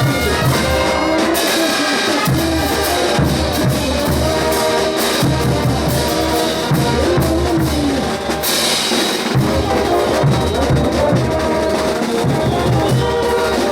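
Bolivian brass band playing ch'uta dance music: trumpets and low brass carry the melody over a steady beat of drums and cymbals.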